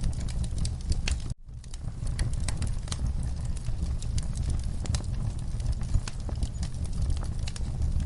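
Wood fire in a fireplace crackling, with many sharp pops over a low steady rumble. About a second and a half in, the sound cuts out for a moment and fades back in.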